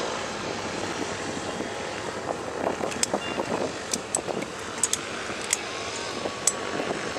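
Distant propeller aircraft engines running steadily, with several short sharp clicks in the second half.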